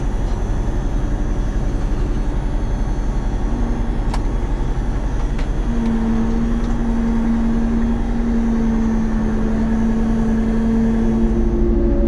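Don-1500B combine harvester running with a loud, steady diesel drone. A steady low humming tone joins in about six seconds in.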